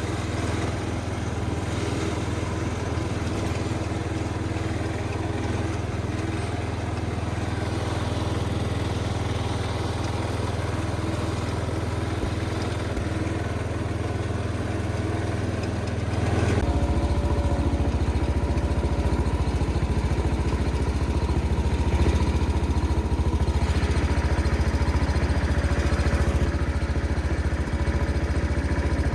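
Small engine of an MTD 990 garden tractor running steadily. About two-thirds of the way through, the sound shifts abruptly to a louder, lower-pitched drone that then holds steady.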